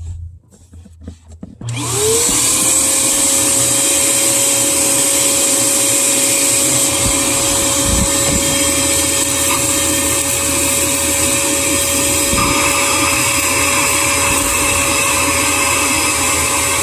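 Vacuum cleaner switched on, its motor whine rising quickly to a steady pitch about a second and a half in, then running steadily with a loud rushing hiss. A few small clicks and knocks come before it starts.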